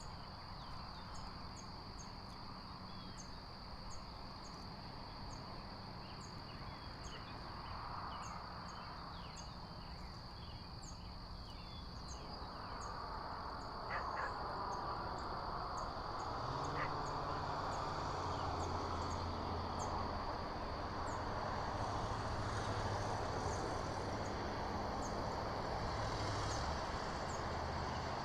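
Outdoor ambience: a small bird gives short high chirps, about one or two a second, over a steady high-pitched tone. From about halfway, a vehicle engine's rumble grows and holds.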